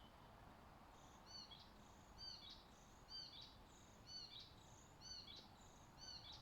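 A bird singing faintly, repeating the same short, high chirping phrase about once a second, six times in a row, over a faint steady hiss.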